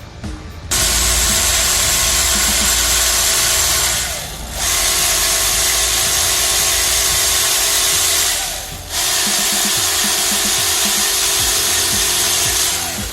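A workshop tool running in three loud bursts of about four seconds each, a steady hissing whir with short pauses between.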